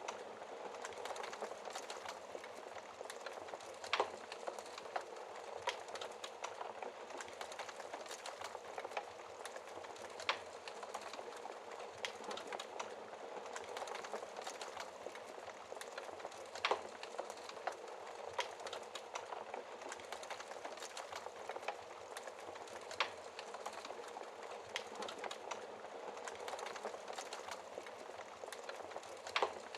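Wood fire burning in a fireplace: a steady hiss of flames with dense small crackles and a sharper pop every six seconds or so.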